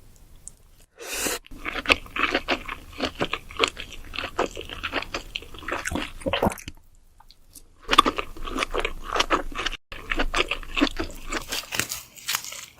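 Close-miked eating of king crab: rapid crackling crunches of shell with wet chewing, in two spells broken by a pause of about a second near the middle.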